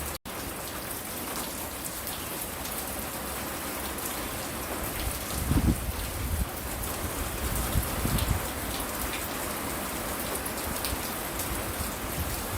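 Steady rain falling on a front porch and the ground around it: a constant hiss and patter of drops. The sound cuts out for an instant near the start, and a couple of brief low rumbles come about halfway through.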